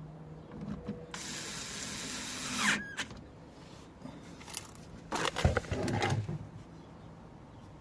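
A power tool whirs for about two seconds. A few seconds later come a short cluster of metallic knocks and rattles, typical of workshop tools and parts being handled during car repair work.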